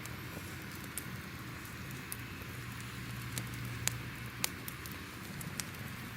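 Crackling fire: a steady hiss and low rumble with scattered sharp pops, the loudest two a little before and just after four seconds in.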